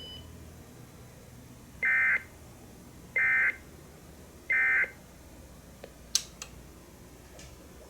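Three short bursts of Emergency Alert System SAME digital data, a buzzy two-tone warble about a second apart: the end-of-message code that closes the broadcast alert. A couple of sharp clicks follow near the end.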